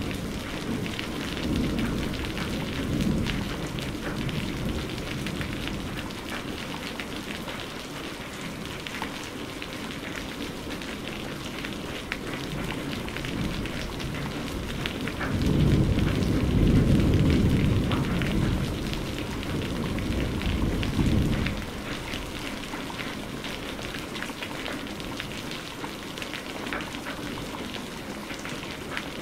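Steady rain falling, with a patter of individual drops. A deep rumble of thunder dies away over the first couple of seconds, and another low rumble swells about halfway through and lasts around six seconds.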